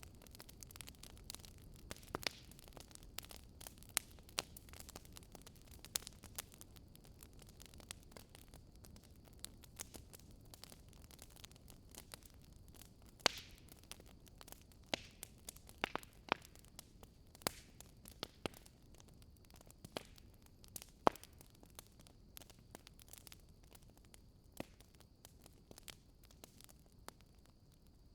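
Fire crackling: irregular sharp pops and snaps over a faint steady hiss, with a few louder pops scattered through.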